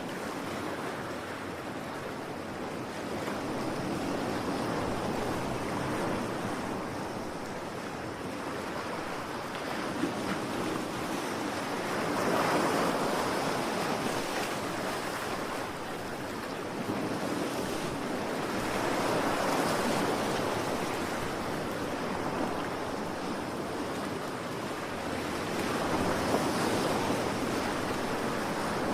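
Ocean waves: a steady surf wash that swells and falls back in slow surges, one about every seven seconds.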